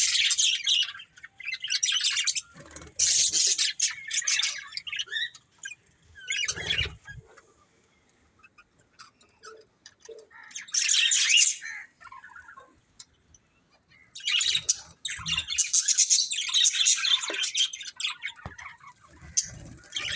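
Budgerigars chirping and chattering in bouts of a second or a few seconds, with short quiet gaps between; the longest run of chatter comes a little past the middle.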